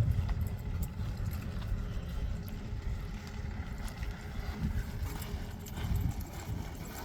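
Hoofbeats of a horse moving on the ground, as faint irregular ticks over a steady low rumble.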